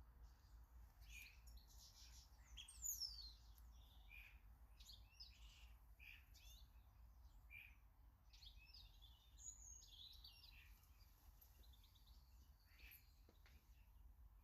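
Faint garden birdsong: several small birds chirping and calling in short notes, with a few quick downward-sliding whistles, over a steady low background hum.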